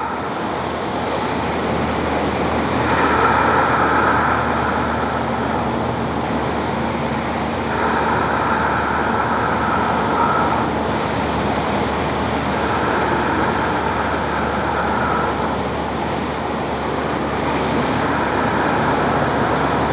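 Steady rushing noise of wind and ocean surf, swelling a little about every five seconds.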